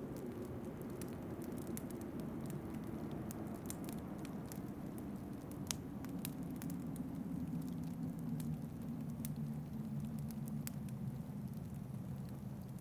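Wood fire crackling, with scattered sharp pops and snaps, over a steady low howling wind whose pitch sinks slowly.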